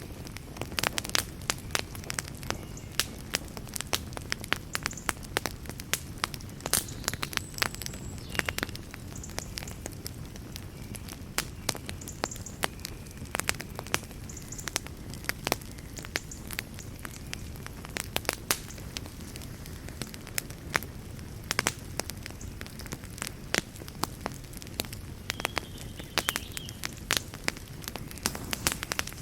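Wood fire burning in a fireplace: many sharp, irregular crackles and pops, several a second, over a low steady rumble of the flames, with an occasional brief faint hiss.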